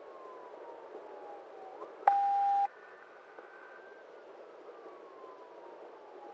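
Patrol car siren wailing in slow falling sweeps, faint under the road and engine noise in the pursuing car's cabin. About two seconds in, a loud single electronic beep lasts about half a second.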